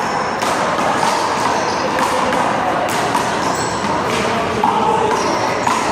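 A rubber handball smacking against the wall and the court several times, each hit sharp and sudden, over a steady din of background voices.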